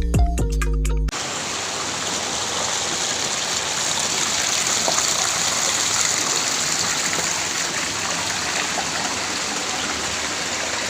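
Background music stops abruptly about a second in, followed by a steady rush of flowing water.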